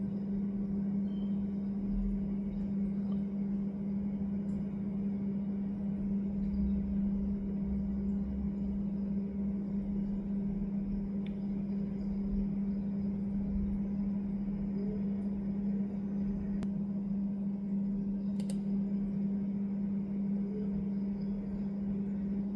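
A steady low hum holding one pitch, with an uneven low rumble underneath that swells and fades, and a single click late on.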